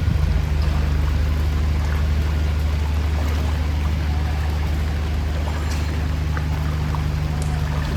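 An engine running steadily with a constant low hum, over a hiss of moving floodwater.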